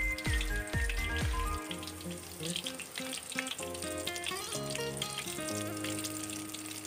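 Batter-coated chicken pieces sizzling as they deep-fry in hot oil in a pan, under background music with held notes and a low bass for the first second and a half.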